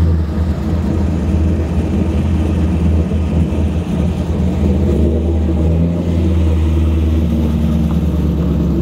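Chevrolet C5 Corvette's V8 idling just after being started, with a low, steady exhaust note.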